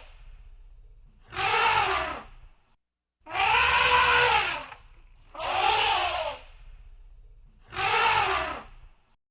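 Elephant trumpeting: four loud calls about two seconds apart, each about a second long, rising then falling in pitch. A faint low rumble runs underneath between calls.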